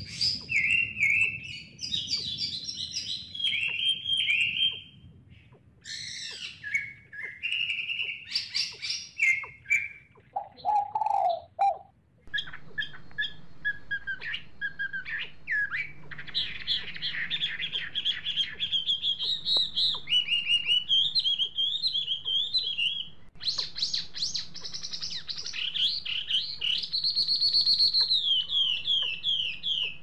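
Birds chirping in quick runs of short high notes, with a brief lower call a little before the middle and a short break just after it.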